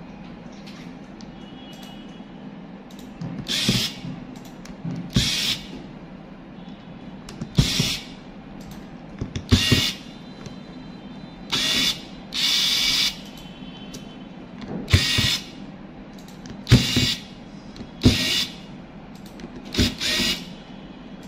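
A small power tool run in short bursts, about a dozen of them, with a longer run near the middle, as the phone is taken apart.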